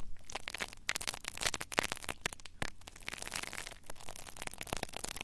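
Close-miked ASMR trigger sounds: dense crackling and scratching, a quick irregular run of many small clicks.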